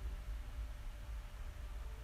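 Quiet room tone: a faint steady low hum and hiss, with no distinct sound.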